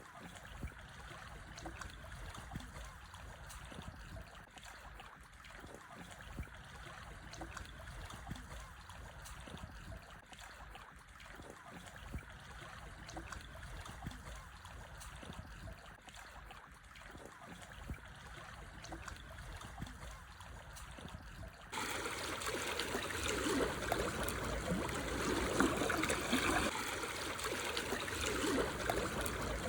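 Small, calm sea waves lapping and trickling over black stones on a shore. A little over two-thirds of the way through, the water sound abruptly becomes louder and fuller.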